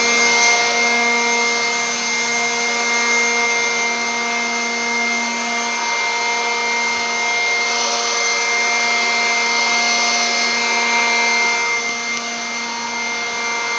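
An electric motor-driven machine running steadily with a high whine, in the manner of a vacuum or blower.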